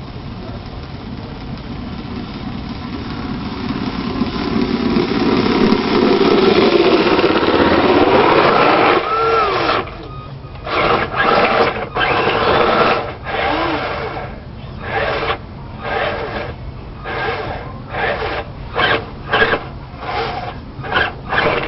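A radio-controlled vehicle's motor whining. It builds over the first several seconds into a steady loud run, then cuts in and out in short throttle bursts, about a dozen, coming quicker toward the end.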